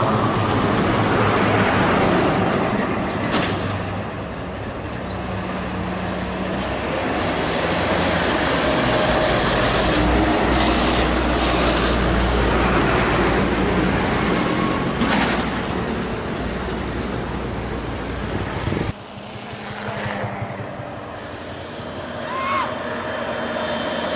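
Heavy diesel truck engines running under load on a hill climb, with a sudden drop in level about three-quarters of the way through.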